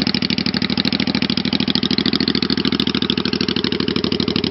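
1985 Honda Shadow VT500's V-twin idling on choke through its welded-up exhaust pipes, with a steady, fast, even pulse. The engine is still a little cold.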